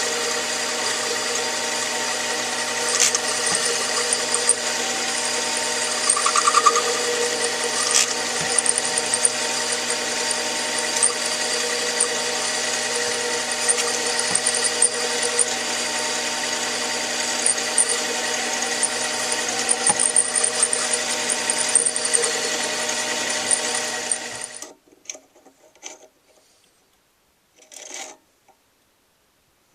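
Small metal lathe running under power, its motor whine steady with a few light ticks, while taking a 50-thousandths turning pass. It shuts off abruptly about 25 seconds in, followed by a couple of faint handling sounds.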